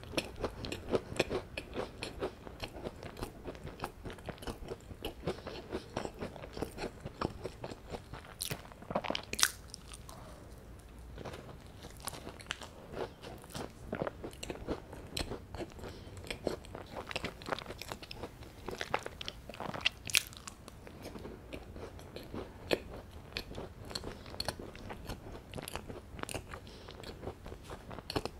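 A person chewing and biting into an anbutter scone, a crumbly scone filled with butter and red bean paste. Many small crunches and wet crackles run on, with a few sharper bites, about 9 and 20 seconds in.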